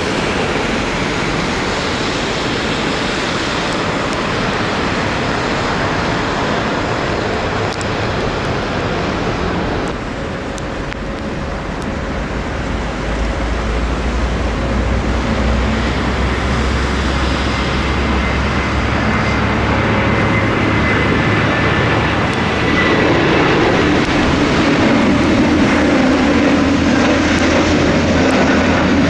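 Jet airliner engines, a low rumble that builds through the middle and grows louder toward the end, under a constant rush of strong wind on the microphone.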